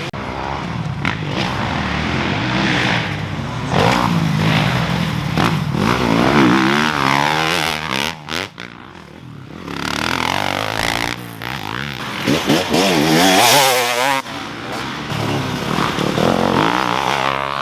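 Two-stroke dirt bike engine being ridden, revving up and down over and over as the throttle is worked. It eases off briefly about halfway through, then picks back up.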